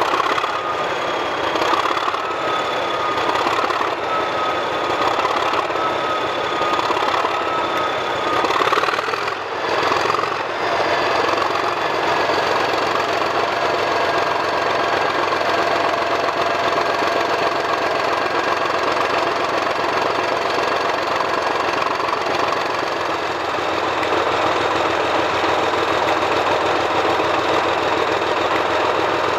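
Class 37 diesel locomotive's English Electric 12CSVT V12 engine running steadily after a cold start, with a steady high whine over the engine's knock. About nine seconds in, the whine steps up in pitch, then holds level.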